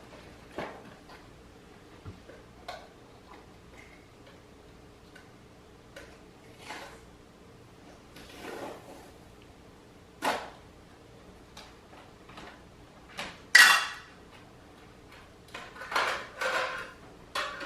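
A gift being handled and opened: scattered rustles, clinks and knocks, with the sharpest, loudest clatter about three-quarters of the way in.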